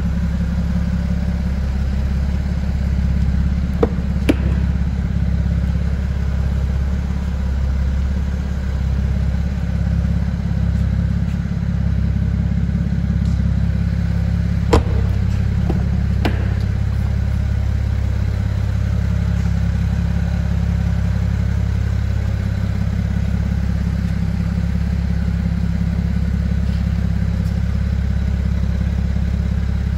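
A BMW 335's turbocharged straight-six idling steadily with a deep low hum. A few sharp knocks come through, around four seconds in and twice more around the middle.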